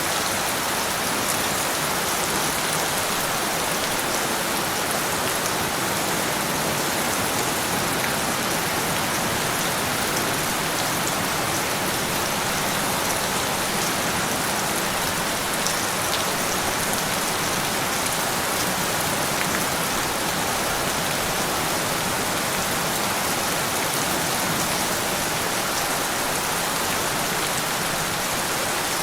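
Steady rain falling on a surface, a dense even hiss of drops with faint individual drop ticks, no thunder.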